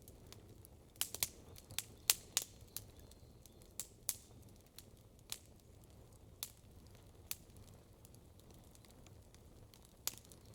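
Campfire crackling: sharp pops and snaps of burning wood, a quick run of them between one and two and a half seconds in, then single pops spaced out, over a low, steady background.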